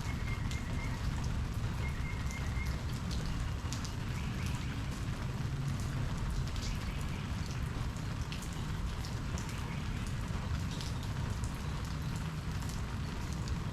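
Steady rain with scattered individual drops ticking, over a constant low rumble.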